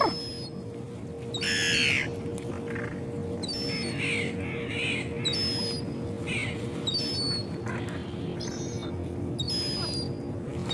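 Seagulls calling: one loud, harsh squawk about one and a half seconds in, then scattered shorter calls, over a steady low hum.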